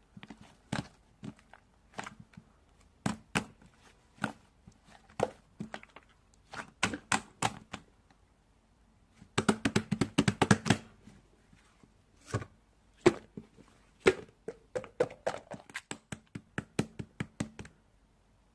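Slime being squeezed and poked by hand, giving irregular sharp clicks and pops, with a dense run of rapid crackling pops about nine to eleven seconds in.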